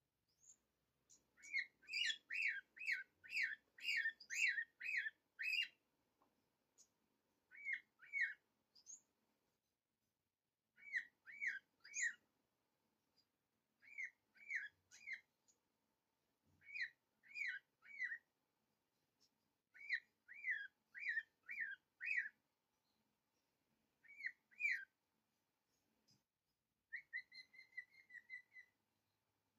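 A small bird chirping: runs of short notes, several a second, in groups with pauses between, the first run the longest, and a quick trill near the end.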